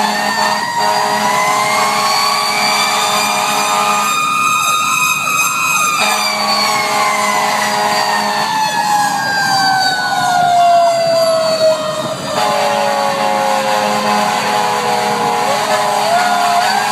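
Federal Q2B mechanical fire-engine siren wailing: its pitch winds slowly up for about six seconds, coasts down for about nine, then starts to climb again near the end.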